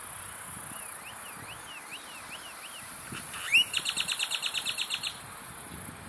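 Birds singing: a faint run of about eight quick rising-and-falling whistled notes, then, about three and a half seconds in, a louder song that opens with a sharp upslurred note and runs into a fast trill of about fourteen notes lasting a second and a half. A steady high hiss runs underneath.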